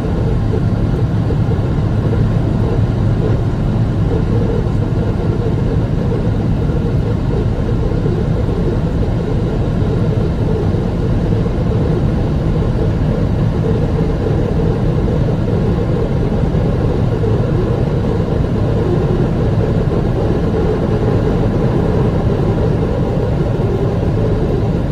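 Airliner jet engines running steadily, heard from inside the cabin as a constant low rumble with a faint steady hum above it.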